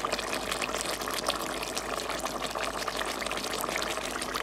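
Chicken pieces frying in hot oil, a steady dense sizzle full of small crackles and pops.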